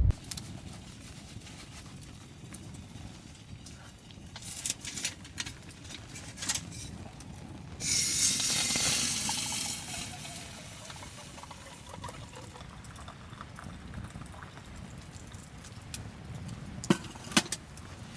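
Liquid poured for about two seconds, a loud hiss with a faint tone falling afterwards, among scattered small clicks and knocks; two sharp clicks near the end.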